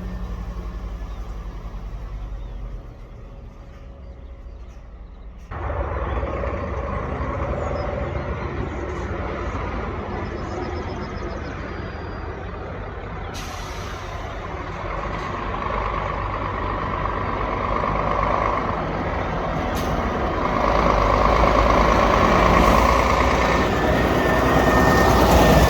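Scania R410 truck's engine running. It drops quieter briefly a few seconds in, picks up sharply again, and then grows steadily louder to the end, as under rising load.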